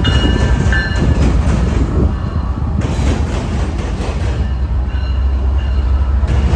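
Train passing close by: a steady heavy rumble of locomotives and wheels on the rails, with a brief high squeal in the first second.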